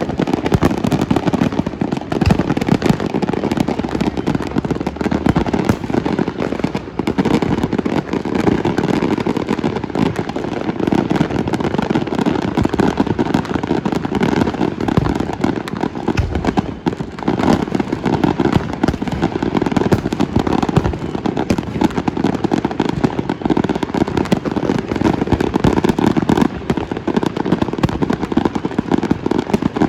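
Dense, continuous barrage of New Year's fireworks and firecrackers going off, countless overlapping pops, cracks and bangs with no let-up.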